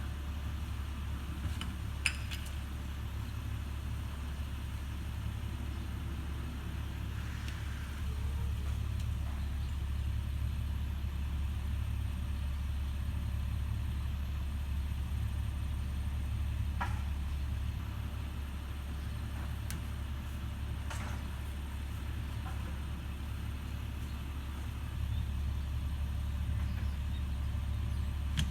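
Recycling truck's engine idling steadily. Its level steps up about eight seconds in, eases back near eighteen seconds and rises again near the end. A sharp click comes about two seconds in.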